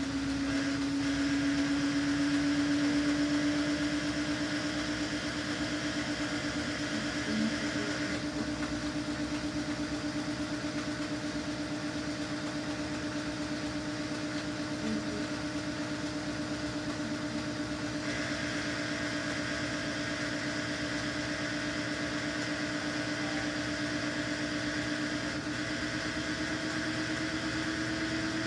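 Samsung washing machine spinning its drum: a steady motor hum whose pitch creeps slowly upward as the spin speeds up, with a fine even pulsing from the turning drum.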